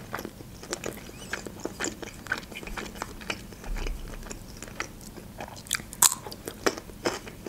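Close-up mouth sounds of someone chewing food, with many short wet clicks, then a louder crunch about six seconds in as a piece of pickled cucumber is bitten.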